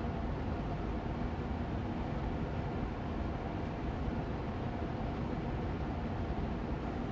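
Austin Air Allergy Machine air purifier fan running steadily on medium speed: an even rushing of air with a faint hum underneath, unchanging throughout.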